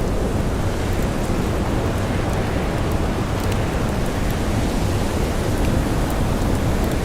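Steady blizzard wind and blowing snow, a dense rushing noise heaviest in the low end, with a few faint scattered crackles of a campfire.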